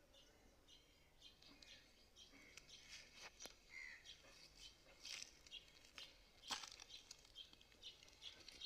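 Faint chorus of small birds chirping: many short, quick calls overlapping, busier from about halfway in, with a few sharp clicks among them.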